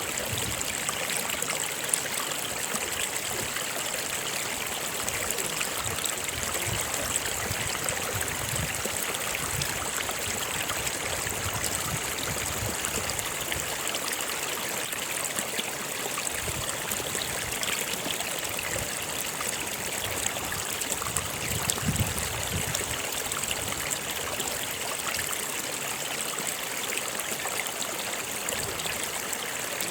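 Stream water running steadily over rocks, a continuous rushing with soft low gurgles and splashes. A steady high hiss stays on top throughout.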